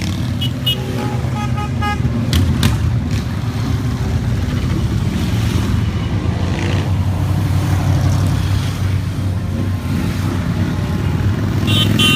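Steady low engine rumble from a long stream of motorcycles passing, with short horn toots from about half a second to two seconds in and again near the end.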